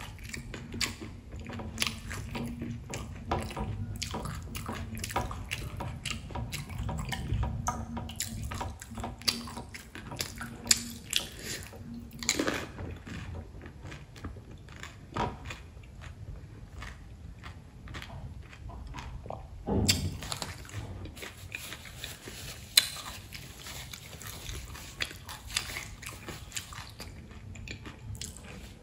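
Close-up mouth sounds of a pani puri, a crisp hollow puri dunked in spiced water, being bitten and chewed: many small wet clicks and crunches, with a sharper click a little past twenty seconds in.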